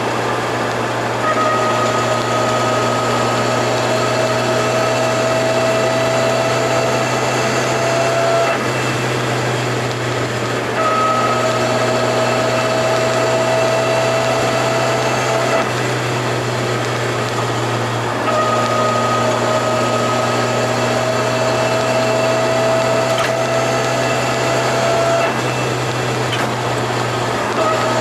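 Turbocharged Toyota AE86 under way: a steady low drone with a whine that rises slowly over several seconds, drops out briefly, then starts again lower, three times over.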